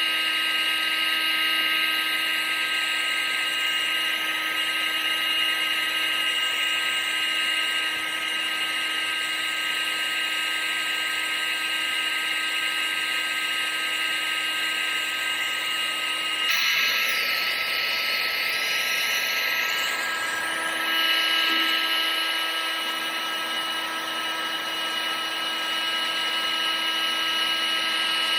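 Vacuum cleaner running steadily: a constant motor whine with several high tones over rushing air. A little past halfway the tones shift and the sound changes character for a few seconds, then settles into a steady run again.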